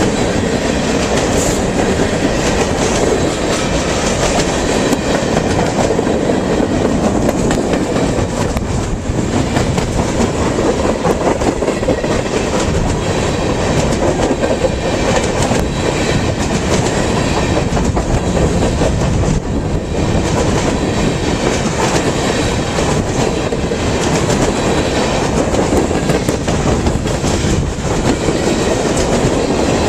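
Freight cars of a long manifest train rolling past, steel wheels clacking over rail joints with a steady loud rumble.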